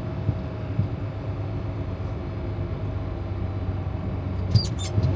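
Semi truck's diesel engine running at low speed, a steady rumble heard from inside the cab, with a few short high squeaks near the end.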